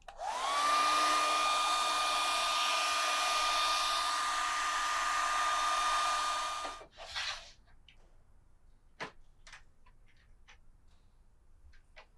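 A small electric blower motor, like a hair dryer's, spins up with a quickly rising whine. It runs steadily for about six seconds and then switches off, followed by a short second blast and a few light clicks.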